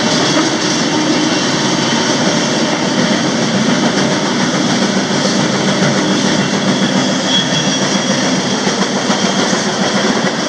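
Freight train rolling along, heard from the end platform of a covered hopper car: a loud, steady roar.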